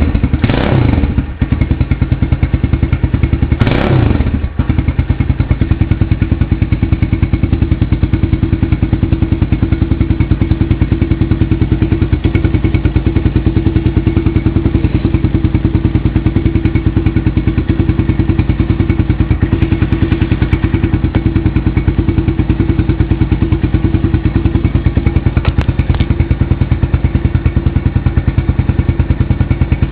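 Kawasaki KLX110L's small single-cylinder four-stroke engine idling steadily after a fairly cold start, with a couple of brief changes in the engine note in the first few seconds.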